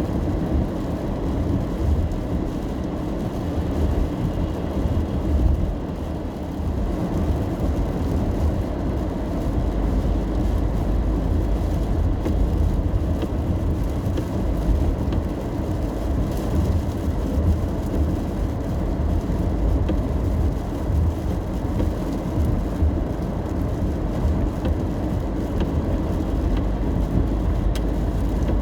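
Car driving on a rain-wet road, heard from inside the cabin: a steady low rumble of tyres and engine with a fainter wet hiss over it.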